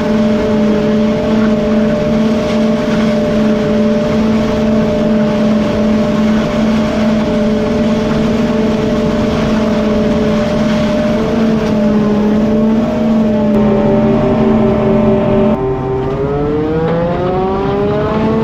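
Heavy farm machinery engine running at a steady pitch, then about three-quarters of the way through it dips and its pitch rises as the engine revs up.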